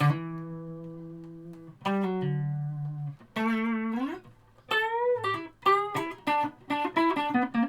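Strat-style electric guitar on its neck pickup playing a short lick. One note rings and fades for almost two seconds, then a few picked single notes follow, one bent upward, and a quicker run of notes comes toward the end.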